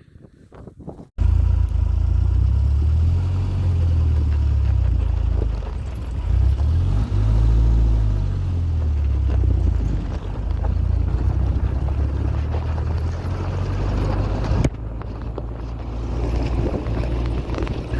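Strong mountain wind buffeting the microphone: a loud, low rumble that starts abruptly about a second in and eases somewhat near the end.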